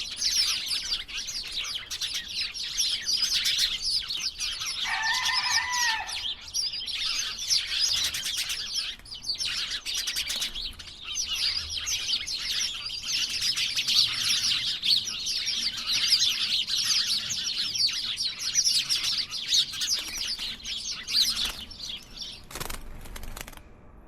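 A flock of small birds chirping and chattering continuously, many short high calls overlapping, with one lower, longer call about five seconds in. The chatter thins out near the end, where a few sharp clicks are heard.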